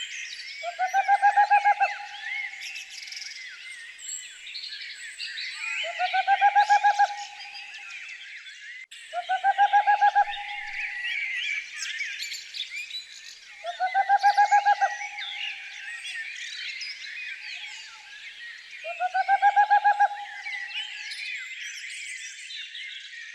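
Dawn-chorus-like tangle of many songbirds singing continuously. Over it, a lower-pitched bird call sounds five times, about every four to five seconds: each a rapid pulsed trill lasting about a second, and the loudest thing heard.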